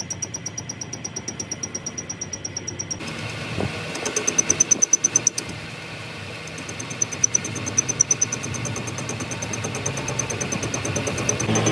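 An engine running steadily, with a fast, regular high-pitched pulsing over it that breaks off briefly a couple of times.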